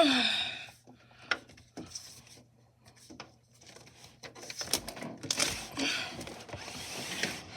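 A window being opened: a sudden squeak that falls in pitch at the start, then scattered clicks and knocks, and a stretch of scraping and rustling about five seconds in.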